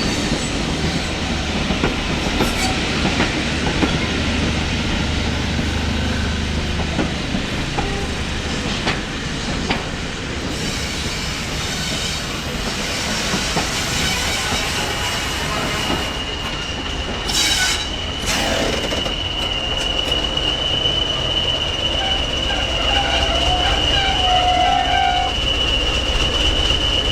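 Train running along the line, wheels clattering over the rails, with a thin, steady high-pitched wheel squeal setting in about halfway through and holding to the end.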